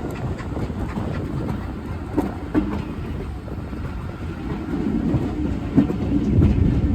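A train running on the rails: a steady low rumble with sharp, irregular clacks of wheels passing over rail joints, growing louder near the end.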